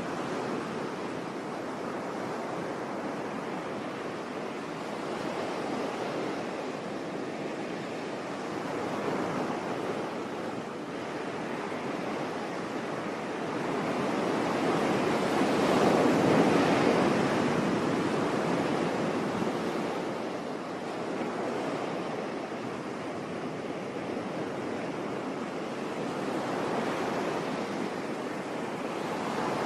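Sea waves washing onto a shore in a steady rushing wash, with one larger wave swelling up about halfway through and then ebbing away.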